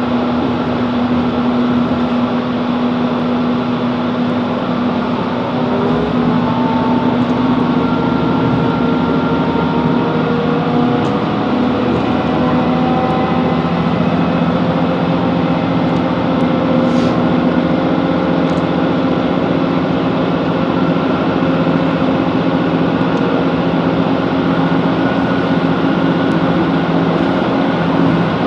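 Inside a Class 165 Networker Turbo diesel multiple unit under way: steady diesel engine and running noise, with tones that rise in pitch between about five and twelve seconds in as the train picks up speed.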